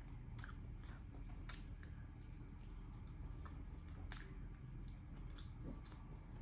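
A person chewing barbecue close to the microphone: wet chewing with a few scattered sharp smacks and clicks, over a low steady hum.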